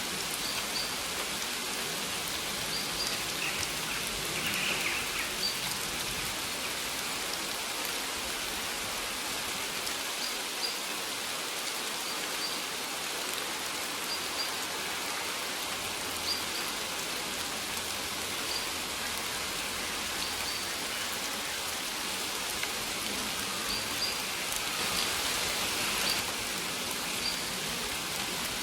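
Steady rain falling on a surface, an even hiss with no let-up, with short high bird chirps recurring every second or two.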